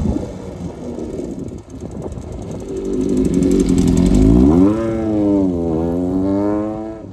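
Honda CBX550F air-cooled inline-four motorcycle engine under way. A rough rumble in the first few seconds gives way to the engine note climbing with the revs, dipping briefly and climbing again, then dropping away at the end.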